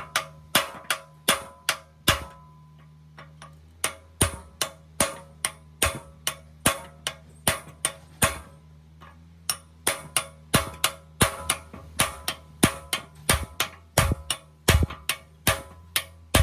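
Repeated sharp metallic taps or strikes, irregular at about two to three a second, with a short pause about two seconds in, over a steady low hum.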